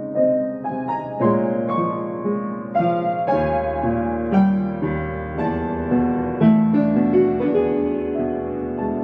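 Solo piano playing a slow, gentle piece: single notes struck over sustained chords, with deeper bass notes coming in a little over three seconds in.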